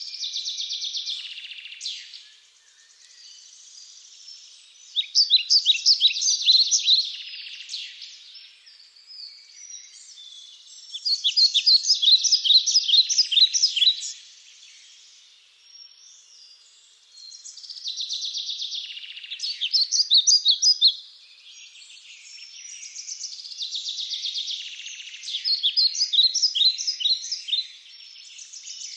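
Songbird singing: phrases of quick, repeated high notes that come back every six seconds or so, with softer chirping between them.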